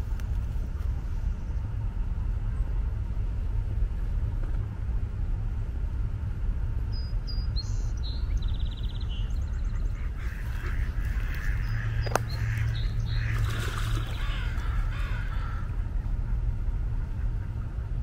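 Birds calling: a few short, high chirps about eight seconds in, then a run of louder, lower calls from about ten to fifteen seconds, over a steady low rumble.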